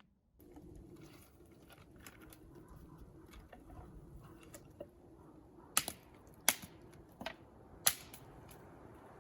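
Four sharp knocks, roughly two-thirds of a second apart, over a steady low hiss with small scattered clicks.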